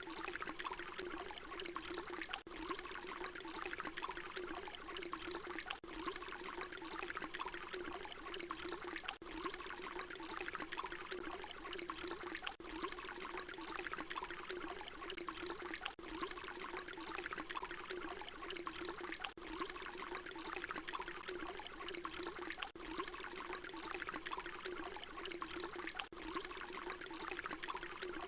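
Water pouring in a steady stream, with a hum-like resonance in the splash. It is a short recording looped over and over, with a brief dip at each seam about every three and a half seconds.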